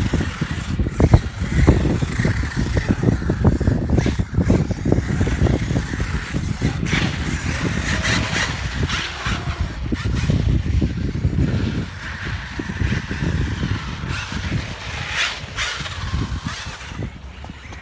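Strong wind buffeting the microphone in gusts, over the faint whine of brushless electric RC truck motors driving through snow.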